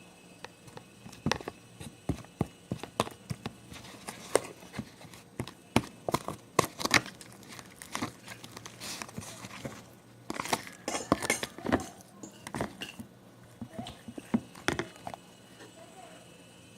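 Homemade slime being squeezed and kneaded by hand, giving irregular sticky pops and clicks, some sharp and loud, with short pauses between handfuls.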